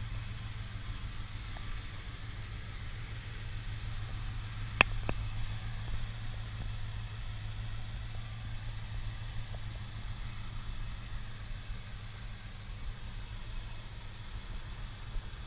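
1966 Plymouth Satellite's engine idling steadily at the curb, a low even hum. A single sharp click stands out about five seconds in.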